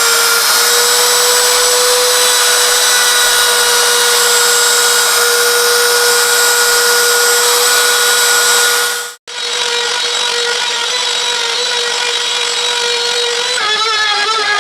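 Spindle of a hobby CNC router milling a 6082 aluminium block: a steady high whine over the hiss of the end mill cutting metal. The sound cuts off abruptly about nine seconds in, then comes back a little quieter. Its pitch wavers near the end.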